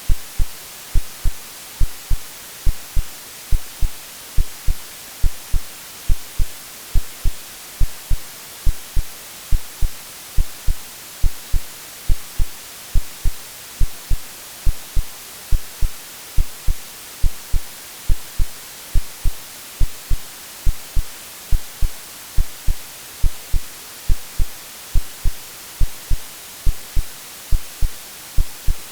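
AI-generated heartbeat, a steady 'lub-dub' of paired low thumps at just over one beat a second, over a continuous white-noise hiss, made to resemble the sounds heard in the womb.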